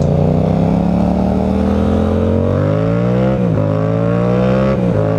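Motorcycle engine accelerating through the gears: its pitch climbs steadily, drops at an upshift about three and a half seconds in, climbs again and drops at a second upshift near the end.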